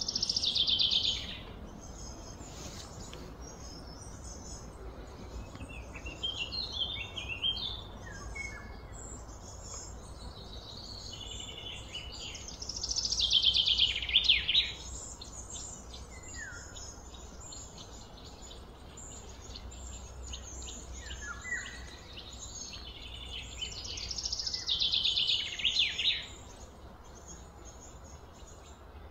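Birds singing outdoors: a loud descending trilled phrase about two seconds long comes three times, at the start, about halfway through and near the end, with shorter chirps scattered between.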